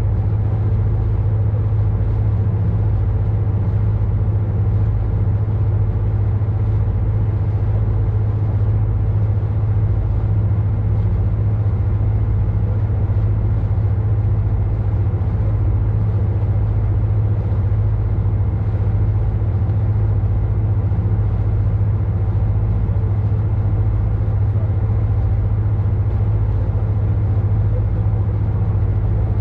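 A boat's engine running steadily at constant speed: a low hum with steady overtones that does not change in pitch or loudness.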